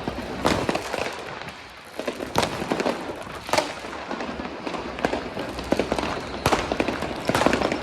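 Fireworks and firecrackers going off: an irregular stream of sharp bangs over steady crackling, with a few louder reports standing out and the bangs coming thicker near the end.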